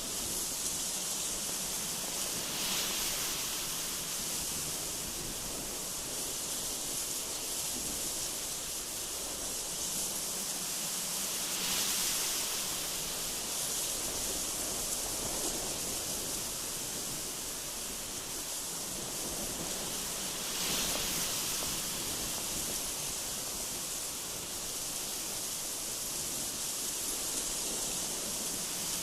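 Strong gusty wind: a steady high hiss that swells into louder gusts every few seconds.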